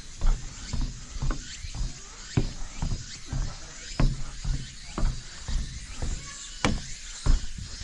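Footsteps of a hiker walking downhill on a mountain trail, sharp thumps and clicks about twice a second over a steady background hiss.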